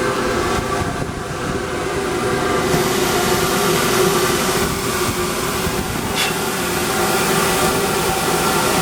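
Grinder running steadily with a motor hum; about three seconds in, a hissing rasp joins as the assembled slipjoint knife is held against the abrasive to flush it up.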